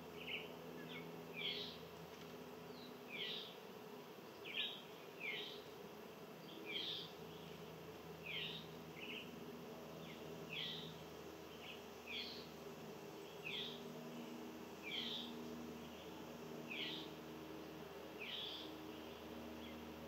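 A bird repeating a short, downward-sliding call about once a second, over a faint steady hum.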